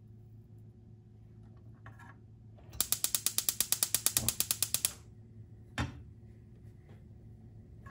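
A fast, even run of about twenty mechanical clicks lasting about two seconds, like a ratchet being turned, followed a second later by a single knock.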